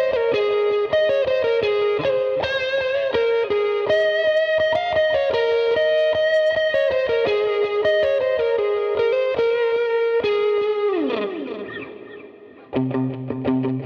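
Electric guitar played through a Line 6 Helix solo patch: a fast single-note lead line. About 11 seconds in the pitch slides down in one long fall and the sound fades, then lower notes come back in near the end.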